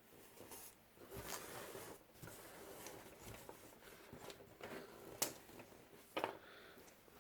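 Faint handling noises: rustling and scraping with a few sharp clicks and taps, the loudest click about five seconds in and a double click about six seconds in.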